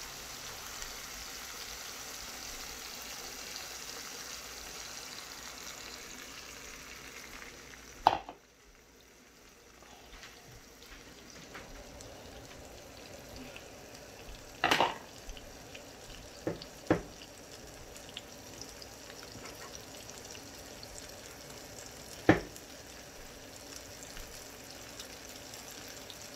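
Sausage, peppers and onion sizzling in a hot skillet. About eight seconds in there is a sharp knock and the sizzle drops sharply, as beaten eggs go into the pan and cool it, then slowly builds again, with a few more sharp knocks later.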